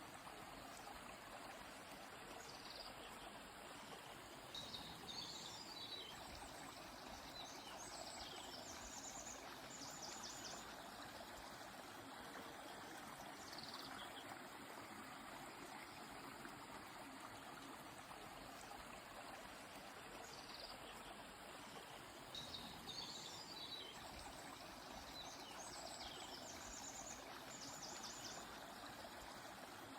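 A stream flowing steadily, with birds singing short chirps and trills a few seconds in and again later on.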